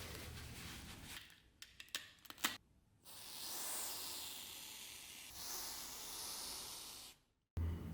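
A pressurised spray hissing twice, each hiss about two seconds long, cutting off suddenly, after a few sharp clicks of handling.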